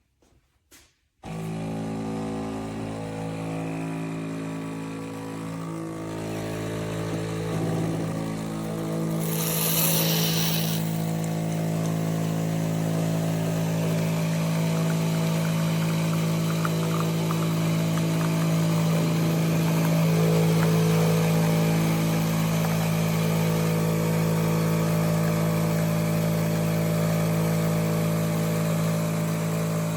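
A machine starts abruptly about a second in and runs steadily with an even, multi-toned hum, with a brief hiss around ten seconds in.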